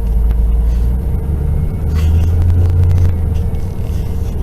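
Car running, heard from inside the cabin: a steady low rumble that swells for about a second midway, with a faint steady hum above it.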